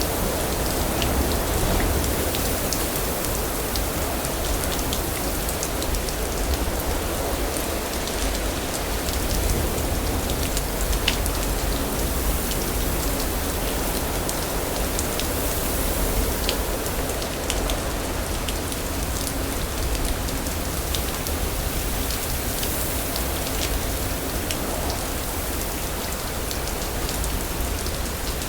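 Steady heavy rain falling on surfaces, with many close drops ticking and a deep low rumble beneath.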